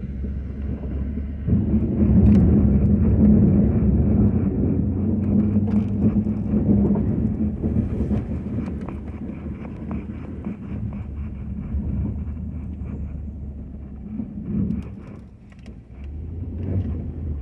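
Ford F-250 pickup's engine running under load, getting much louder about a second and a half in and then slowly easing off.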